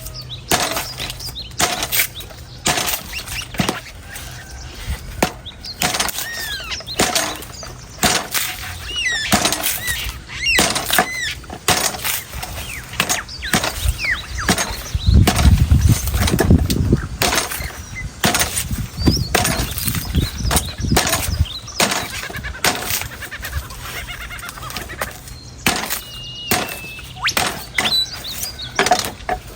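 A sharp knife chopping into the hard husk of an old coconut: a quick, irregular series of sharp strikes, with a deeper rumble for a couple of seconds about halfway through. Birds chirp in the background.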